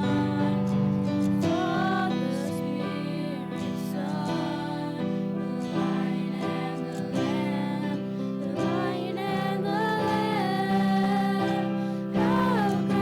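Worship song: a voice singing a slow melody over steady instrumental accompaniment.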